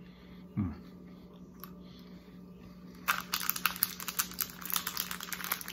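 Crunchy cookie M&M's being chewed with the mouth closed: a dense run of crisp, irregular crunching that starts about three seconds in, after a quiet stretch with one short hum.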